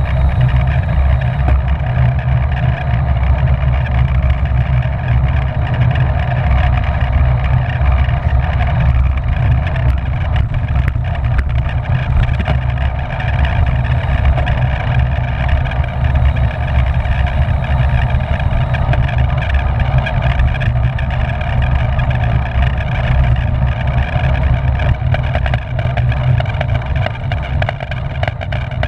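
Wind rushing over the microphone of a camera riding on a racing bicycle at speed: a loud, steady rumble with a rougher hiss above it.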